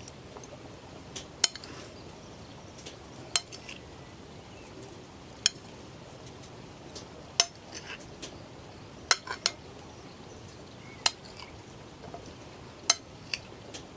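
Sharp, light clinks, as of dishware or metal utensils being struck, about ten of them spaced irregularly a second or two apart, over a steady background hiss.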